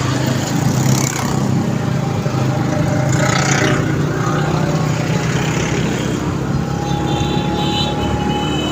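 Motorcycle engine running steadily under way, a continuous low hum with road and air noise. A thin steady tone comes in near the end.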